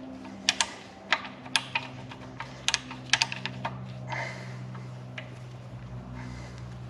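Irregular sharp metallic clicks and clinks, about a dozen in the first four seconds, from hand tools and bolts being handled on a lorry engine being stripped down, over a low steady hum.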